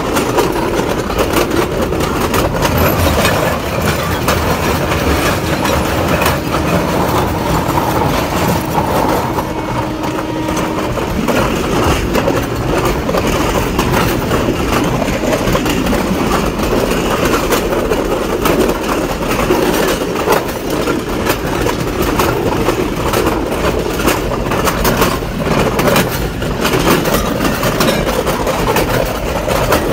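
Train running along the rails: a steady rumble of wheels and carriages with repeated clicks as the wheels pass over the rail joints.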